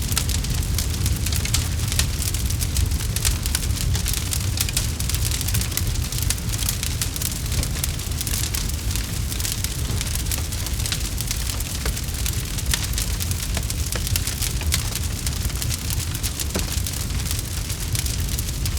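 Campfire burning with a steady low rumble of flames and many sharp crackles and pops from the burning wood.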